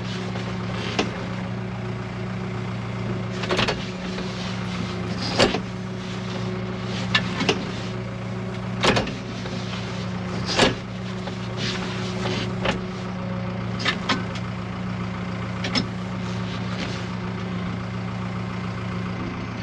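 Vehicle engine idling steadily, with sharp short knocks or clanks every second or two.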